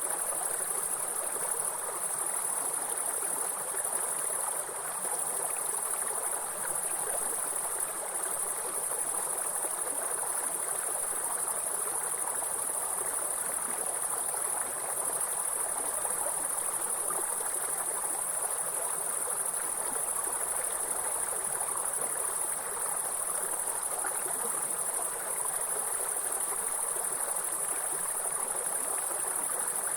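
Insects, grasshoppers by the uploader's account, keeping up a steady, high, unbroken chirring over the even rush of a flowing stream.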